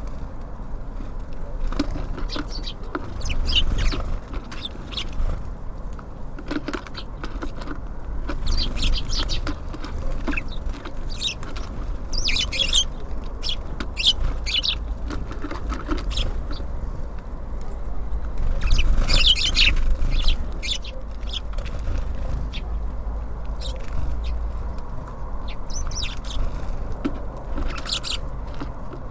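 Small songbirds at a bird feeder chirping in scattered short calls, with wing flutters as they come and go; the calls are densest twice, about halfway and two-thirds of the way through. A steady low rumble runs underneath.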